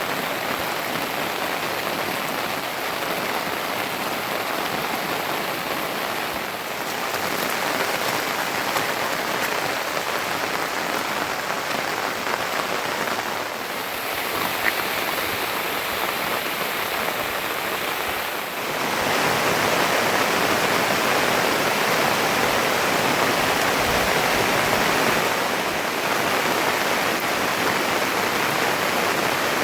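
Steady rain falling, an even hiss of many drops; its level and tone shift abruptly a few times.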